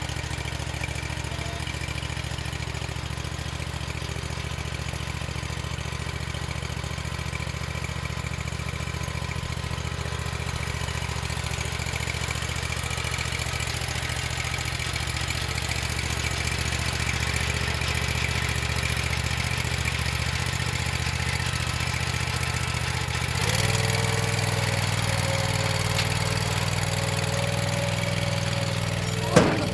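Rented stump grinder's engine running steadily. About 23 seconds in its note shifts and grows a little louder, and a single sharp knock sounds near the end.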